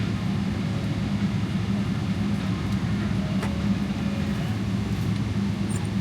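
Boeing 777-300ER heard from inside the cabin at take-off: the GE90 jet engines and airframe make a steady rumble with a constant low hum.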